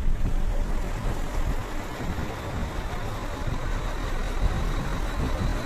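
Heavy rain falling in a steady hiss, with a deep low rumble underneath.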